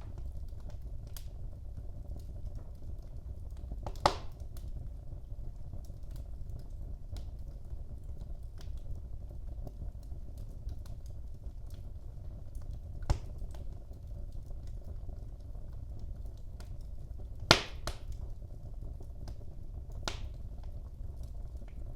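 Wood fire crackling in a fireplace: a steady low rumble with many small crackles and four sharper pops, the loudest about three-quarters of the way through.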